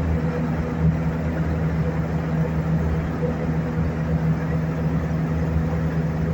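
Airbus A320 cabin noise in flight: a steady drone of engines and airflow with a constant low hum.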